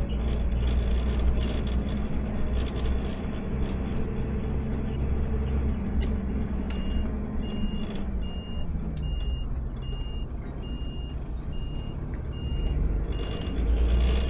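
Automated sideload garbage truck's engine running with a steady low rumble. From about halfway through, a reversing alarm beeps evenly about twice a second, and the engine grows louder near the end.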